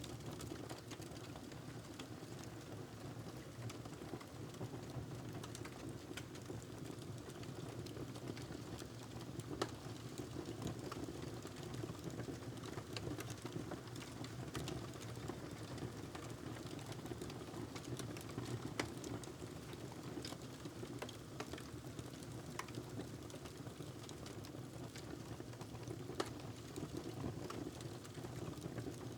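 Wood fire crackling in a fireplace: irregular sharp pops and snaps scattered over a steady low rumble of the flames.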